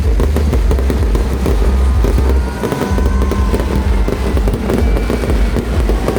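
Fireworks display: a dense, rapid volley of bangs and crackles over continuous low booming.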